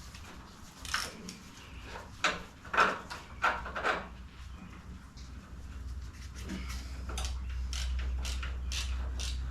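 Several sharp metallic knocks and clicks, like tools and engine parts being handled. From about halfway in, a low steady hum comes in with a run of quick ticks over it.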